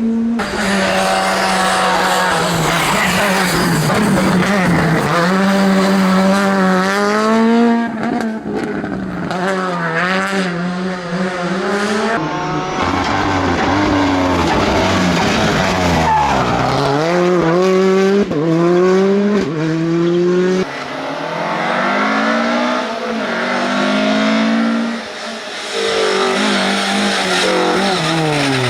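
Rally car engine revving hard on a mountain stage. The pitch climbs and drops sharply again and again as it shifts gear and lifts off into corners.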